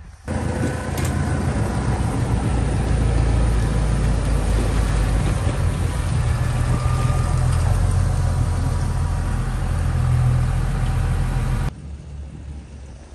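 Tractor engine running steadily and loud, with a deep low hum, starting suddenly just after the start and cutting off abruptly about a second and a half before the end.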